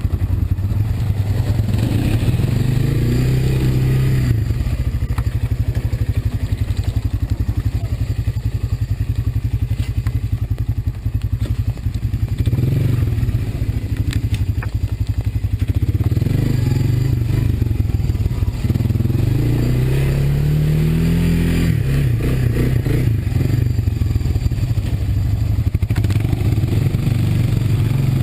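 Honda ATV engine running under way, revving up twice, a few seconds in and again past the middle.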